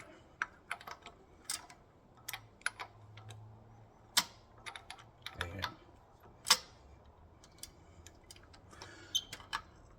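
Irregular sharp metallic clicks and taps from hand tools and engine parts as the Honda K24A is turned over by hand, with the loudest clicks about four and six and a half seconds in.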